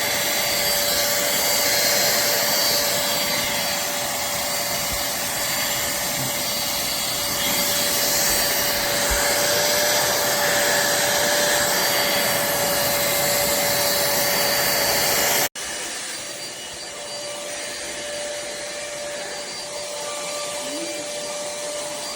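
Cordless handheld vacuum cleaner running steadily: an even rush of air with a steady motor whine. About fifteen seconds in it breaks off sharply, then carries on quieter with the same whine.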